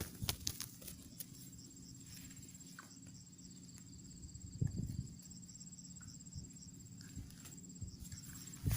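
Insects trilling in a high, steady run of rapid even pulses that breaks off briefly near the end, over a low hum. A soft thump about halfway through.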